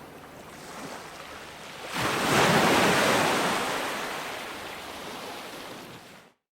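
Ocean waves washing onto a beach; one wave breaks about two seconds in, louder, and its wash fades slowly. The sound cuts off suddenly near the end.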